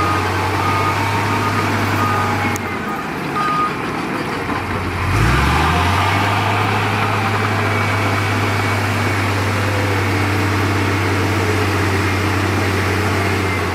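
Heavy diesel earthmoving machinery running steadily, with a reversing alarm beeping about twice a second for the first few seconds. About five seconds in, the engine note briefly rises as it is revved.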